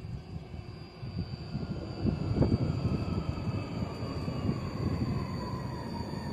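Tram running past: a low rumble of wheels on the rails, with a whine from its electric drive that falls slowly in pitch. The rumble grows louder about a second in.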